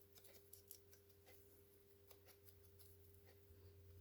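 Near silence: a steady low hum with a few faint clicks and taps of paper cut-outs being handled and set down.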